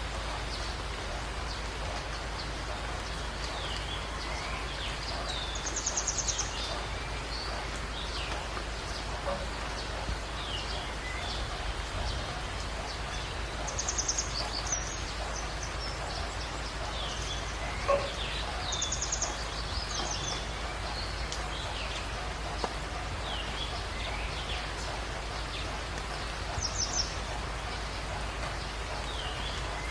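Birdsong over a steady background hiss: one bird gives a short, high trill four times, several seconds apart, while others give many brief downward-sweeping chirps.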